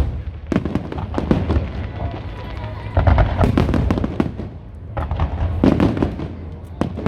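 Aerial fireworks going off in rapid volleys of bangs and crackles, three dense clusters with short lulls between them, over a continuous low rumble of the display.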